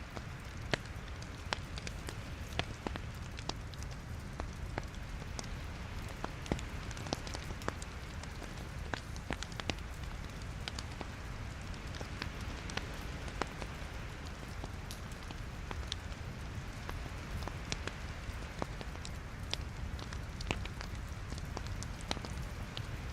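Wood logs burning in a fireplace, crackling with many sharp irregular pops over a steady low rumble and hiss of the flames.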